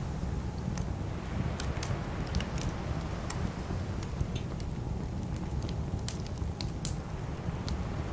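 Campfire burning with a steady low rumble and scattered sharp crackles and pops of the burning wood.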